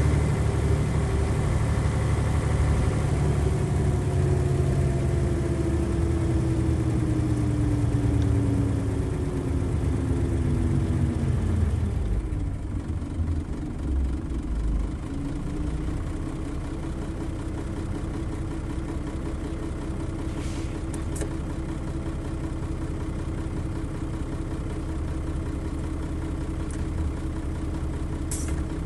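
Nissan Diesel FE92TA turbocharged diesel bus engine winding down, its pitch falling steadily over about twelve seconds as the bus slows, then settling into a steady idle.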